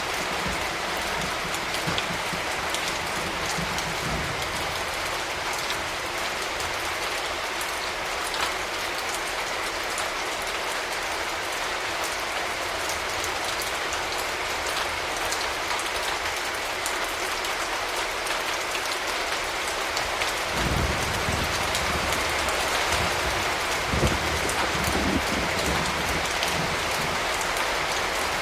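Steady rain falling, an even hiss of drops. A low rumble of thunder fades out in the first few seconds and comes back about two-thirds of the way through.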